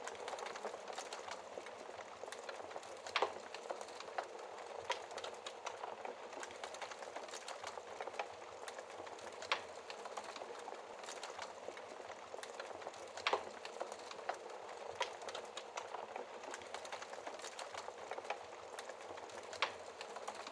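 Wood fire in a fireplace burning with a steady hiss and frequent irregular crackles and pops, a few sharper snaps standing out.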